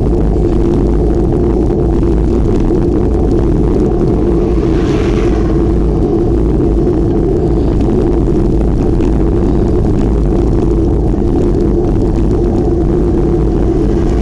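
Loud steady wind rumble on the microphone while riding a bicycle, with a brief hiss about five seconds in.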